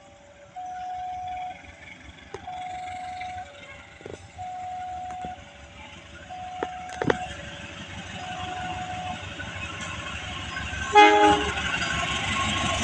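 Level-crossing warning signal sounding two alternating tones, high then low, about one tone a second, while the train's running noise grows louder. About 11 s in, a short loud horn blast from the approaching CC 201 diesel locomotive.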